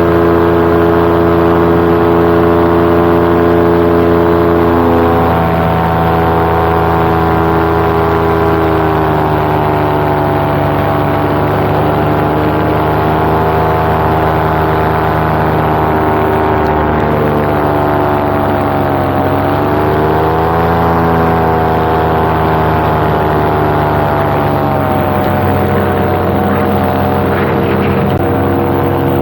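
Paramotor engine and propeller running in flight, a loud steady drone. Its pitch steps down about five seconds in, dips and climbs back around the middle, and shifts again near the end as the throttle changes.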